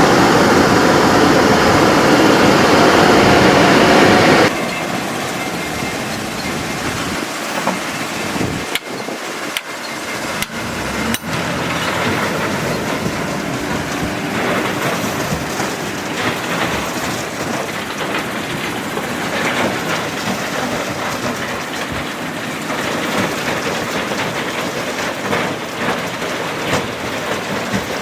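Heavy machinery running as a steady, noisy rumble. It drops abruptly to a lower level about four and a half seconds in, and a few sharp clicks come around the middle.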